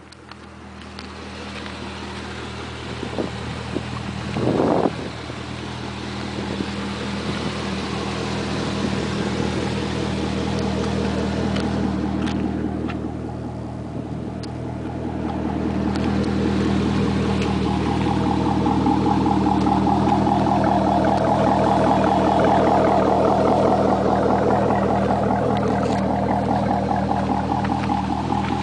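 2007 Chevrolet Corvette's 6.0-litre LS2 V8 running steadily through a custom exhaust, with a brief blip about four and a half seconds in, getting gradually louder in the second half.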